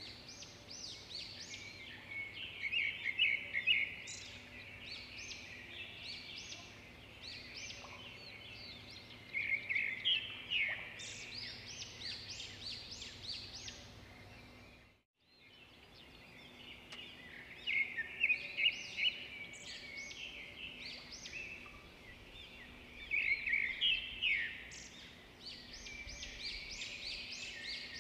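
Small birds chirping in quick bursts of short, high calls every several seconds, over a faint steady hum. The sound drops out for a moment about halfway through.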